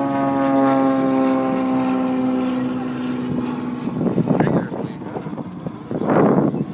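Propeller airplane flying past, its engine drone a stack of tones sliding slowly down in pitch as it moves away, fading out about four seconds in. Then two short, loud bursts of noise, about four and six seconds in.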